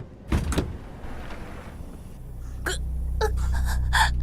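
A young woman's spasmodic gasps and hiccup-like choking sounds, the sounds of a passenger suddenly taken ill. From about two seconds in they sit over a steady low rumble.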